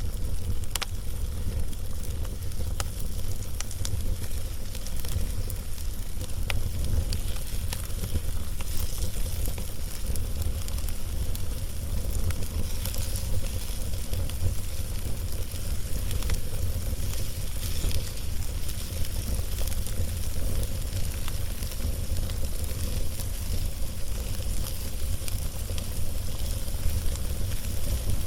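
Wood fire burning, with irregular small crackles and pops from the log over a steady low rumble.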